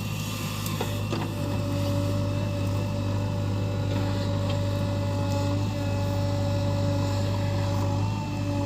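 JCB 3DX backhoe loader's diesel engine running steadily with an even hum, with a couple of light knocks about a second in.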